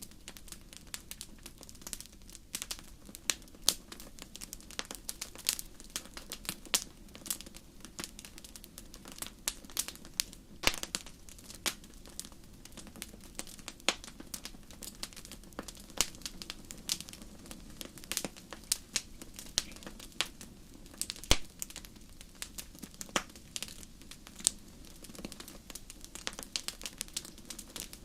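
Wood fire crackling in a fireplace: frequent irregular sharp pops and snaps over a steady low background.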